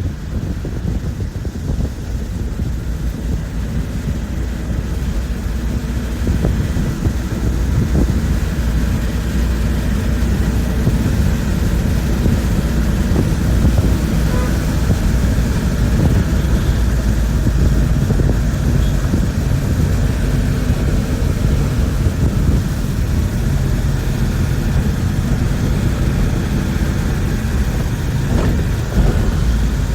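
Steady low engine and road rumble heard from inside a moving bus, getting a little louder about six seconds in.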